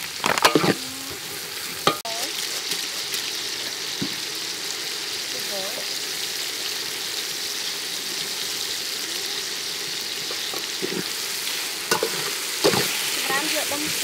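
Dried shrimp and aromatics sizzling in hot oil in a metal pot, a steady hiss. A metal ladle clinks and scrapes against the pot near the start and again near the end as the mixture is stirred.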